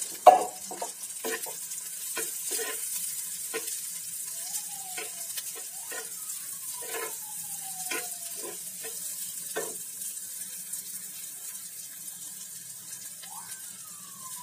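Chopped onion and garlic sizzling in hot mustard oil in a frying pan, with a metal spatula stirring and scraping against the pan in short strokes, a sharp knock just after the start.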